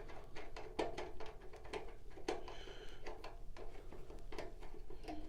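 Irregular light clicks and taps of plastic heater feet and small hardware being handled, with a brief high squeak about two and a half seconds in.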